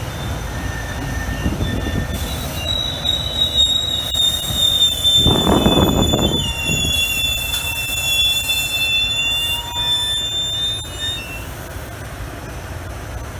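Train rolling by with its steel wheels squealing against the rails: high, steady screeching tones starting about two seconds in and dying away near the end, over a low rumble, with a brief louder rush about halfway through.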